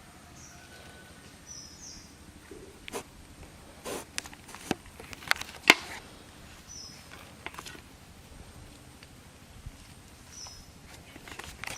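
Scattered sharp clicks and knocks, the loudest a little before the middle, over quiet outdoor ambience with a few short high chirps.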